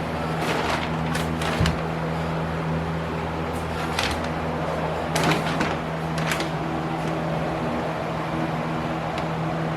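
A steady motor hum, like a fan running, with a handful of light knocks and clicks scattered over it.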